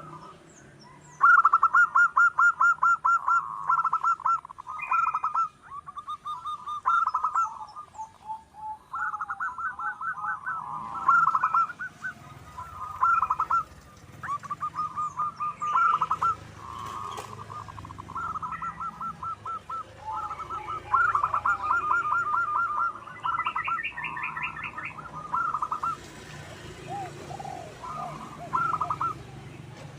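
Zebra doves (perkutut) cooing: repeated phrases of rapid staccato notes, roughly ten a second, with short pauses between phrases. Faint chirps of other small birds sound in between.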